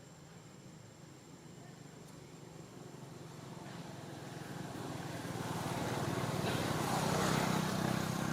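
A motor vehicle's engine drawing nearer, a steady low hum that grows louder and is loudest near the end.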